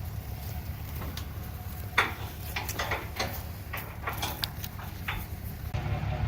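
Irregular clicks and knocks, the sharpest about two seconds in, over a steady low rumble of an idling engine.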